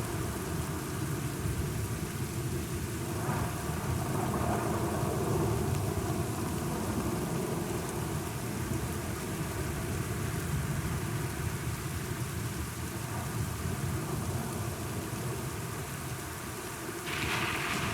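Steady rain with low, rolling thunder that swells a few seconds in and slowly fades; a brighter, hissing surge comes near the end.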